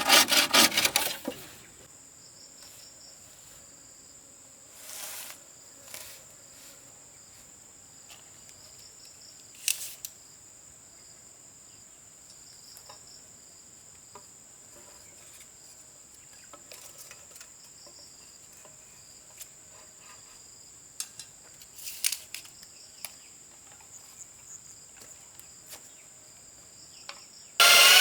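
Hand saw cutting wood in quick even strokes for about a second, then quiet countryside with insects keeping up a steady high-pitched trill and a few light knocks. A power tool starts up loudly just before the end.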